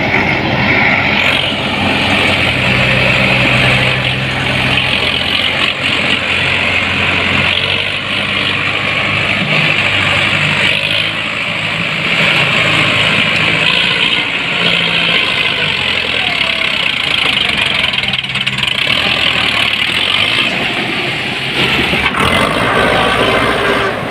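Sonalika tractor's diesel engine running steadily under load, pulling a fully loaded trolley.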